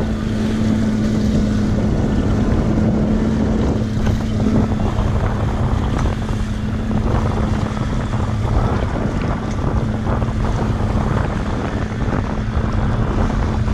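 A boat motor running with a steady low hum, with wind buffeting the microphone. The hum weakens about five seconds in.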